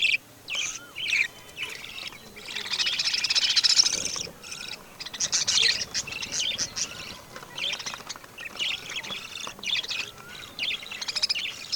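Birds chirping and squawking in many short, quick calls, thickening into a dense burst of chatter a few seconds in.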